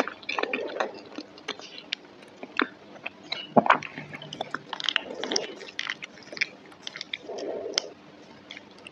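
A person chewing a mouthful of creamy macaroni and cheese: soft, wet squishing mouth sounds broken by irregular small clicks.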